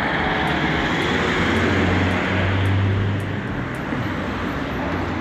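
Road vehicle driving, with steady engine and road noise and a low hum that swells for a couple of seconds near the middle.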